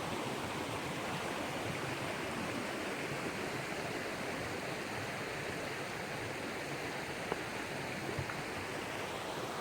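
Creek water running steadily, an even rushing of water with no change through the stretch.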